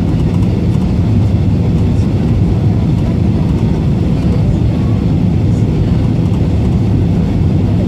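Steady, loud rumble inside an Airbus A320's passenger cabin: engine and airflow noise with a deep low end and no sudden changes.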